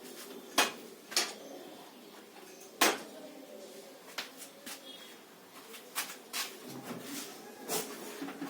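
Metal parts and tools of a washing machine's gearbox assembly being handled, with scattered sharp clinks and knocks, the loudest about three seconds in.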